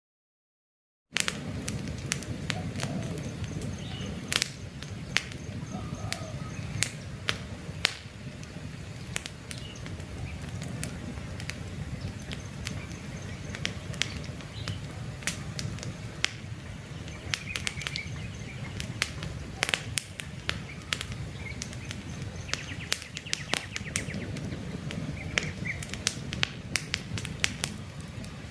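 Campfire crackling: a steady low rush of burning wood, with frequent sharp pops and snaps, and faint bird chirps in the background. The sound drops out to silence for about the first second.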